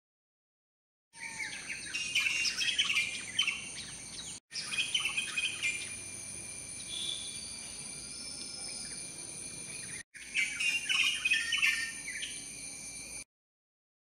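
Birds chirping, with many short calls overlapping, over a steady high-pitched tone. The sound is broken by two brief cuts and stops suddenly near the end.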